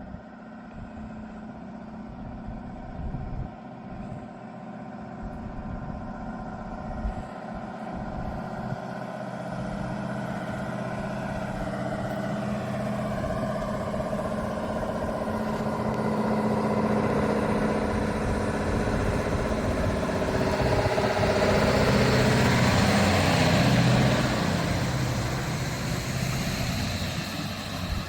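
Scania S660 truck's 16-litre V8 diesel pulling hard under load, growing steadily louder as it approaches and loudest about 24 seconds in, with tyre and wind noise building as it comes close.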